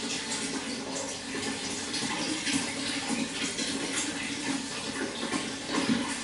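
Running water splashing and gurgling continuously, with many small irregular splashes over a steady rush.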